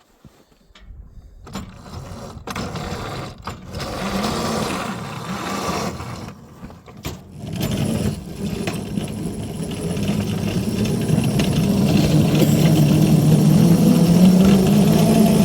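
A small railroad locomotive's engine starting up and running, building in level with a few brief dips, then pulling steadily with its pitch slowly rising near the end as it picks up speed.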